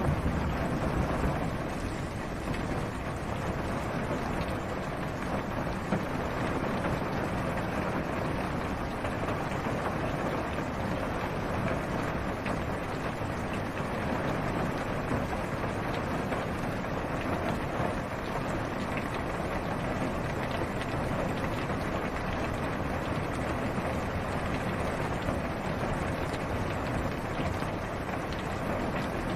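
Steady rain falling on a car's roof and windshield, heard from inside the car.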